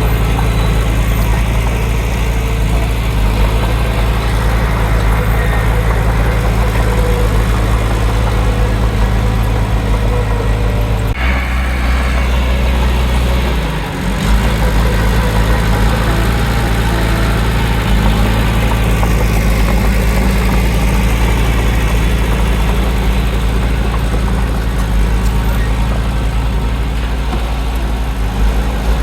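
Heavy diesel engine of earthmoving machinery running steadily. About 11 seconds in there is a sharp click and the engine note drops to a deeper hum for a couple of seconds, with a short dip near 14 seconds, before it settles back to its usual note.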